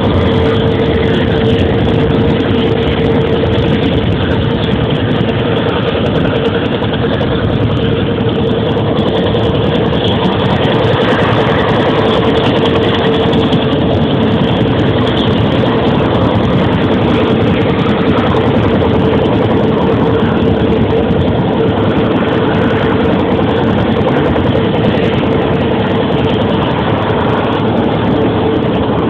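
Helicopter engines and rotors running steadily: a loud, even rush with one constant whine held at the same pitch.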